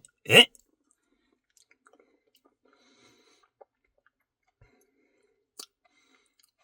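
A short vocal noise just after the start, then faint mouth sounds of someone eating soft ice cream: a few scattered small clicks and smacks, each on its own.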